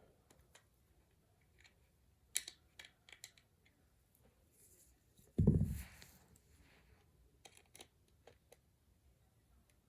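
Scattered small clicks and taps of plastic toy parts and tiny screws being handled during reassembly, in a few quick clusters. About five and a half seconds in there is one louder, short, low breathy puff close to the microphone.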